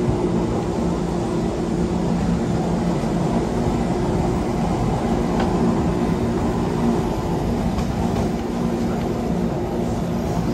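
Wengernalpbahn electric rack-railway train running, heard from inside the carriage: a steady rumble of wheels on track under a constant hum from the motors.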